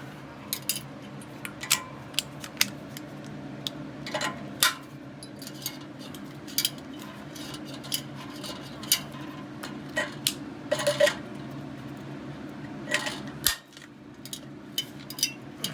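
Irregular metal clinks and clanks of hand tools working at a steel UTV muffler, as its tack-welded core is gripped and twisted loose, over a steady low hum.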